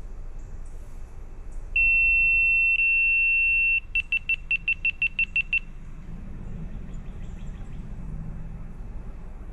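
Electronic beeper: one steady high-pitched tone of about two seconds, then a quick run of about ten short beeps, over a steady low background rumble.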